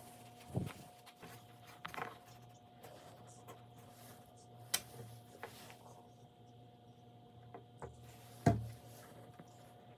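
A few scattered knocks and clicks of things being handled on a workbench, the loudest about eight and a half seconds in, over a steady low hum.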